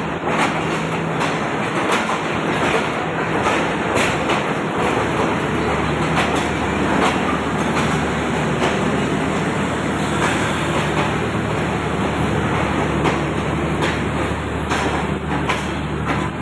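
Passenger train moving along the tracks, its wheels clacking over rail joints through a dense steady rumble. A steady low locomotive engine drone joins in about five and a half seconds in.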